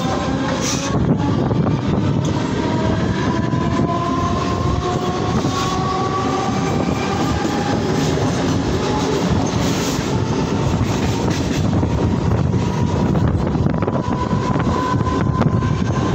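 Mumbai suburban electric local trains at speed, heard from an open doorway: a loud, steady rumble of wheels on rail with some clickety-clack. Another local train passes close alongside on the next track through most of it. Faint electric-motor whines rise slowly in pitch as the trains speed up.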